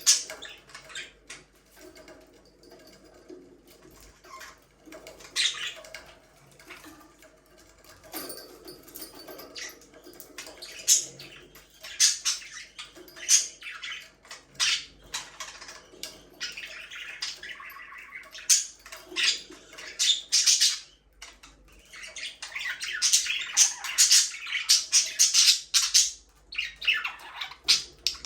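Budgerigars chirping and chattering: scattered sharp high chirps, with busier stretches of continuous chatter in the middle and again in the latter part.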